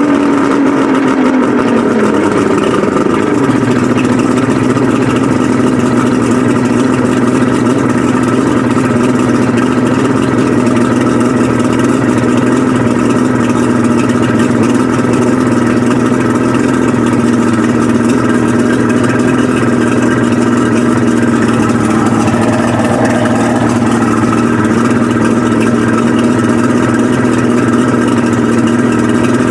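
Twin 1998 Yamaha 250 HP V6 two-stroke outboard engines running. The revs drop over the first three seconds, then hold steady, with a short rise and fall in pitch a little over twenty seconds in.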